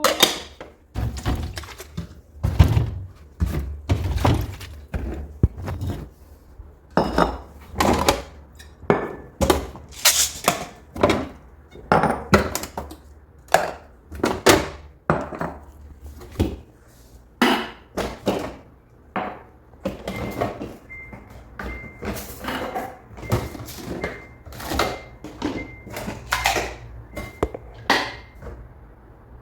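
Food containers, packages and cupboard or fridge doors being handled as things are taken out of a refrigerator and kitchen cupboards: a string of irregular knocks and thunks, one or two a second. In the second half a faint high beep repeats at an even pace.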